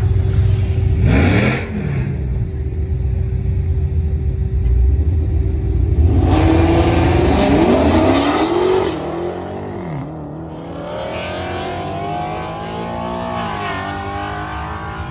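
Dodge Challenger Hellcat Redeye's supercharged V8 idling at the drag strip starting line, then launching hard about six seconds in. The engine note climbs and drops through the upshifts and fades as the car runs away down the quarter mile.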